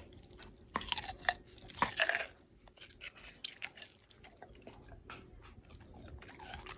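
Chewing and crunching: a string of irregular short, crisp crunches, louder in the first couple of seconds.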